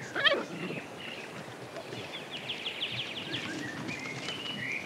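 A short, loud, high cry near the start, then birds calling: a fast chirping trill, then a few gliding calls, over steady outdoor background noise.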